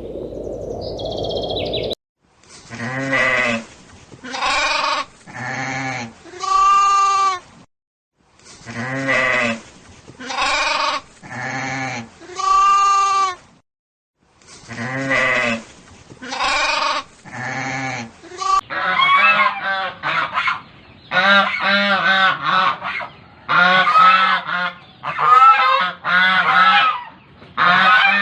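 Animal calls: a set of four drawn-out calls played three times over, then many short calls crowding over one another near the end. A steady noise at the start cuts off about two seconds in.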